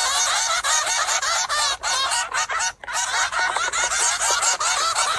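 Many small birds chirping at once: a dense, continuous twittering of overlapping calls, with a brief break about three seconds in.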